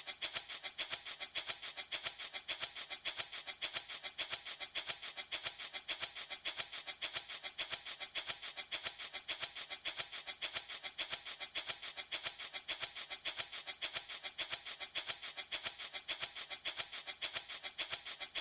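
Handmade baby rattle shaken in a steady, even rhythm, a continuous bright rattling of small beads or seeds with no break.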